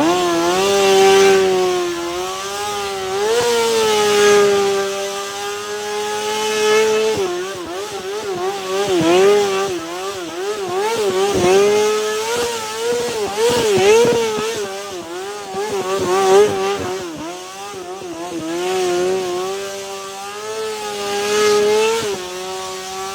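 Kawasaki motorcycle engine held at high revs through a burnout, its pitch wavering up and down as the throttle is worked, with brief dips now and then.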